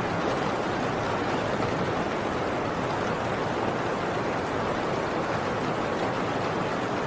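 Heavy rain pouring steadily on a tin roof, an even, unbroken hiss of drops on metal.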